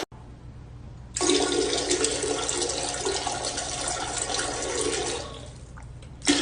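Water rushing, like a flush or a running tap, starting about a second in and fading out near the end, then starting again just at the close.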